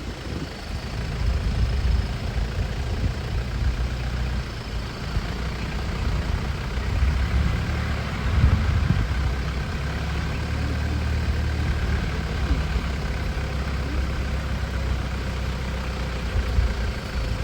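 Safari jeep's engine running with a steady low rumble and a hiss over it.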